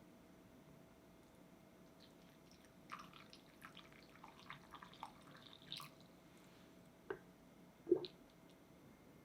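Light kitchen handling sounds: a run of small clicks and taps from utensils and containers, then two sharper knocks near the end, the second and louder one with a short ring.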